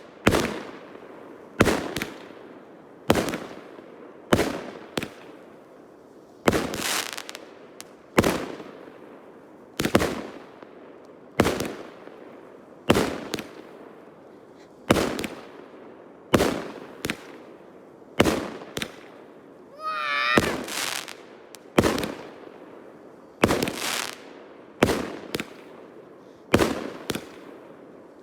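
Fireworks going off: a long string of sharp bangs, roughly one every second or so, each with an echoing tail, and a wavering whistle about two-thirds of the way through.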